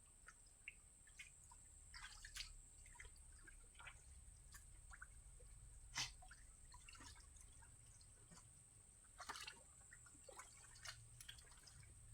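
Faint scattered drips and small splashes of water, one a little louder about six seconds in, over a steady high-pitched whine.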